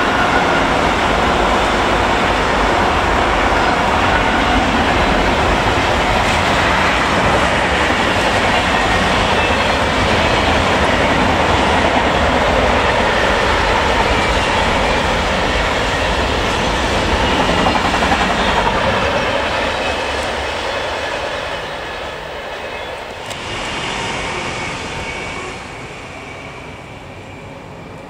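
Long intermodal freight train of container and trailer wagons rolling past: a steady noise of wheels on rail. It dies away from about twenty seconds in.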